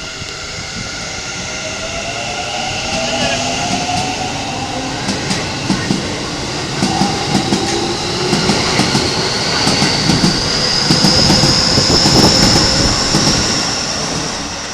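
Keikyū 1000-series stainless electric train pulling away, its motor whine rising steadily in pitch as it speeds up, with rail-joint clacks coming faster as the cars pass over the joints.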